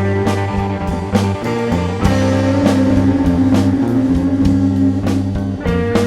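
Rock band playing an instrumental passage: guitar, bass and drum kit, with regular drum hits under sustained guitar notes.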